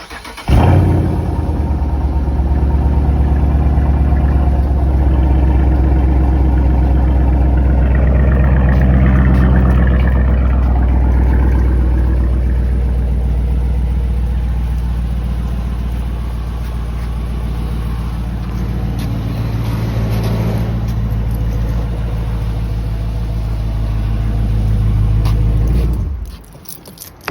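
Car engine starting and running steadily for about 25 seconds, then shut off suddenly.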